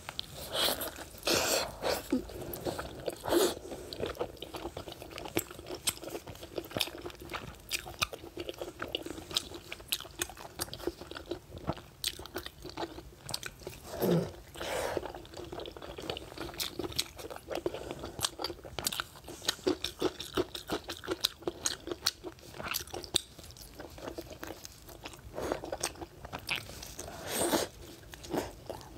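Chewing and biting of braised pork belly: a steady run of mouth clicks and lip smacks as the meat is bitten and chewed.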